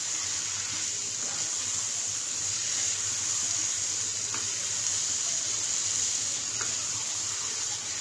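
Flat beans and potatoes frying in a nonstick pan, a steady sizzle, while a spatula stirs them, with a few light scrapes and taps against the pan.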